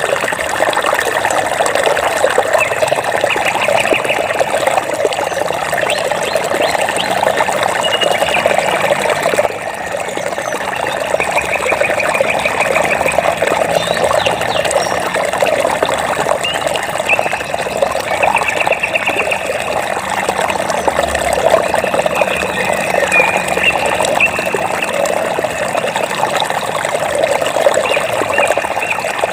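Running water trickling and babbling steadily. Every few seconds a short, rapid high trill from a small animal repeats over the water.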